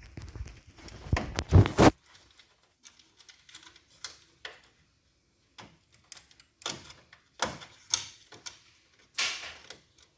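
Irregular plastic clicks and knocks of copier parts being handled and fitted, as the manual bypass-feed part and its connector are put in place, with heavier clunking handling noise in the first two seconds.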